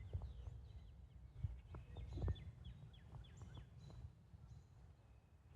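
Wild birds chirping: many short, quick, downward-sliding chirps repeated throughout. Under them, a low rumble of wind on the microphone and a few soft knocks, the loudest a little after two seconds in.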